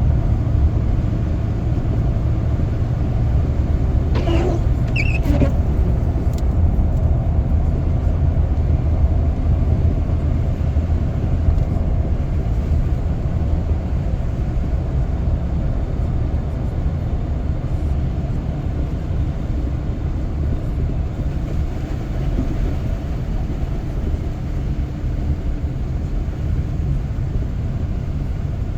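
Steady low rumble of a car driving, heard from inside the cabin: engine and tyre noise on the road. There is a brief higher-pitched sound about four seconds in.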